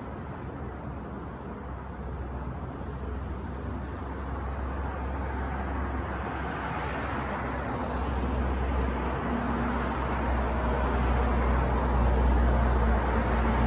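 City street traffic: a continuous wash of road noise with a deep low rumble, swelling steadily louder through the second half as a vehicle draws near.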